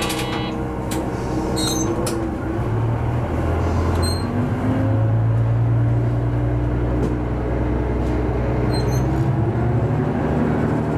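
Diesel railcar under way, heard from the cab: a steady engine drone with its pitch shifting a little, over rolling rail noise, with a few scattered sharp clicks.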